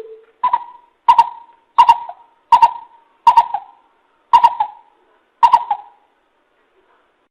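Coucal calling: a series of about eight hooting notes, each with a sharp start, coming slower and slower until they stop about six seconds in.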